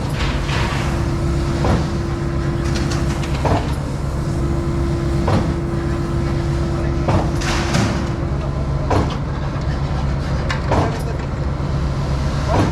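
Skid-steer-powered Mud Demon concrete pump running steadily under its engine, with a clunk about every 1.8 seconds as the pump strokes and shifts.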